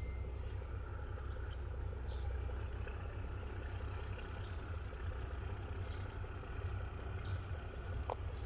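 Diesel train engine running at a steady idle, a continuous low rumble, with a few faint short high squeaks and a sharp click near the end.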